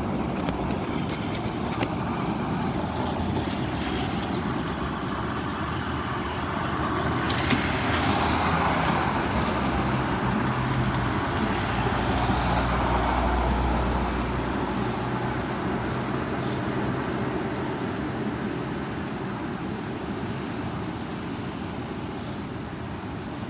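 Strong wind blowing in gusts, a steady rush that swells louder with a deep rumble in the middle for several seconds, then eases.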